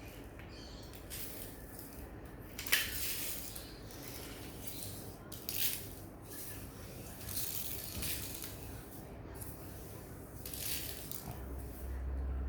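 Dry rice being scooped and poured in short shushing rushes, several in a row, with a sharp click about a quarter of the way in. A low rumble comes in near the end.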